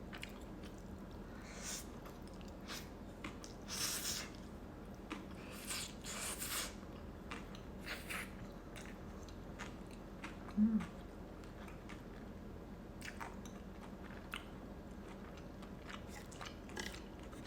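A person chewing Korean rice cakes and noodles close to the microphone: soft wet chewing with scattered louder bites or smacks, the strongest about four and six seconds in. A brief low vocal hum comes about ten and a half seconds in.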